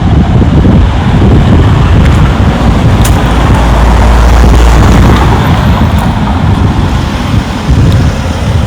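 Wind buffeting the microphone as a heavy, uneven rumble, over the steady noise of road traffic that swells slightly around the middle.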